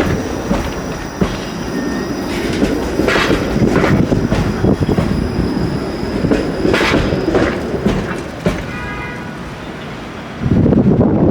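Toronto streetcar rolling slowly through the intersection's track switches: wheels clacking over the special trackwork under a steady rumble, with thin high wheel squeal.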